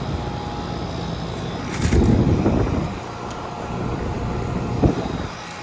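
2000 Rheem Classic Series 10 two-ton air conditioner unit running steadily and cooling well. A louder rush comes about two seconds in, and a sharp click near the end.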